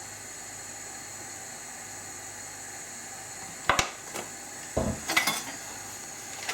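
Kitchen things being handled at the stove: a faint steady hiss, then a sharp clink a little over halfway through, a lighter tap, and a dull knock about three-quarters of the way in, as oil and butter go into a hot frying pan.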